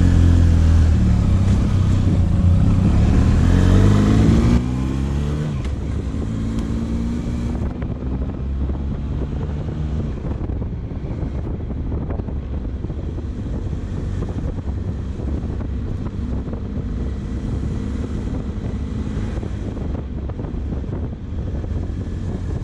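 Benelli motorcycle engine pulling away, its pitch rising as it accelerates for the first four seconds or so. The level then drops suddenly, and the bike runs on at a steady pace with road noise.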